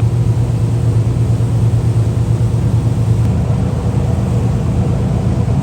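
Jet boat engine running steadily, a loud low hum with a constant hiss over it.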